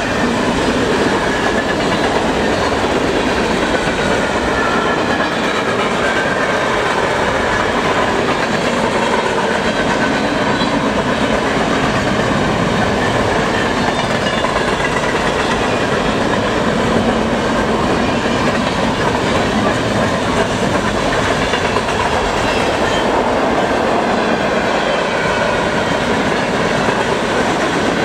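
Freight cars (covered hoppers, then boxcars) rolling past at speed: a steady, loud clatter and rumble of steel wheels on the rails, with faint wavering wheel squeals.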